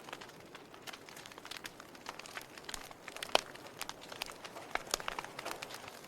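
Log fire crackling: irregular sharp pops and snaps from burning wood over a soft hiss, with one louder pop about a third of the way through.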